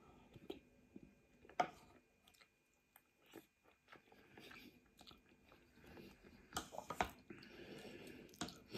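Faint close-up chewing and mouth sounds of someone eating egg noodles, with a few sharp clicks, the loudest about a second and a half in and again near the end. A soft hiss follows the clicks near the end.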